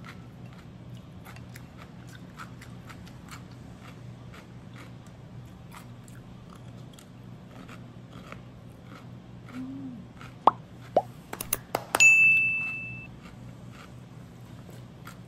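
Someone chewing crisp pickled cucumber: small crunches, irregular, a couple each second. About ten seconds in, a few quick pops and then a bright bell ding, the loudest sound, from a subscribe-button sound effect.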